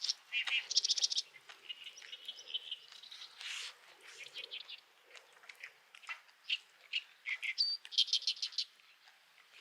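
Birds chirping in quick runs of high, rapidly repeated notes, loudest in the first second and again about eight seconds in.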